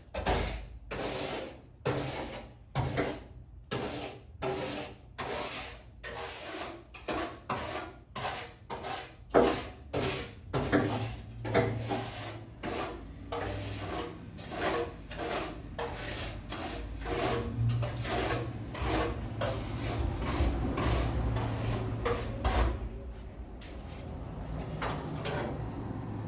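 A stiff brush scrubbing old glue and putty residue off the car's interior floor, in quick repeated back-and-forth strokes about two a second, lighter near the end. A low hum sits beneath the strokes through the middle.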